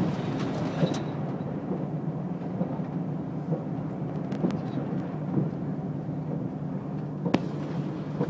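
Steady running rumble of a diesel limited express train, heard from inside the carriage, with a few sharp clicks.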